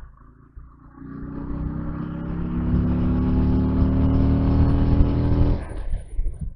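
Motorcycle engine under hard acceleration, building steadily in pitch and loudness for about four seconds, then dropping away suddenly as the throttle is closed near the end.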